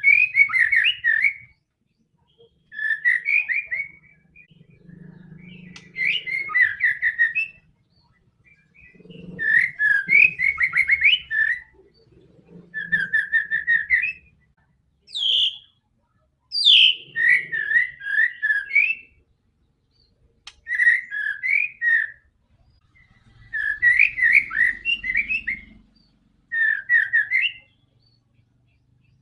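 White-rumped shama (murai batu) singing: a run of about ten short, rapid whistled phrases with brief pauses between them, some opening with a sharp upward-sweeping note.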